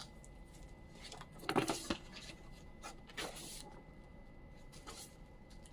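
Paper and cover rustling and rubbing as a hardback book is handled, with two brief rustles, about a second and a half in and about three seconds in, and a few faint clicks.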